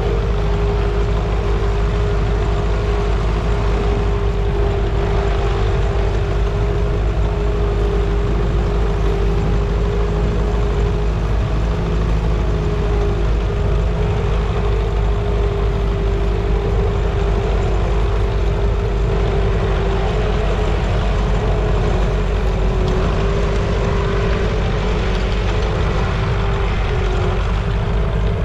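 A heavy engine running steadily at an even speed, a constant low drone with a steady hum above it.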